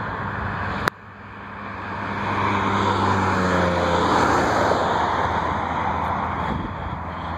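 A sharp click about a second in, then a passing vehicle: a rushing noise that builds over a couple of seconds and slowly fades, over a steady low hum.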